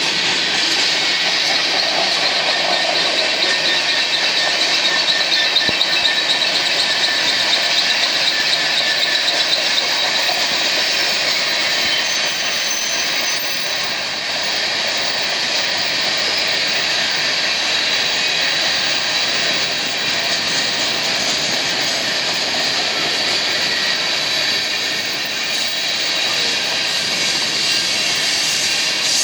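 BNSF freight train running at speed: a steady rolling rush of wheels on rail with a thin high squeal.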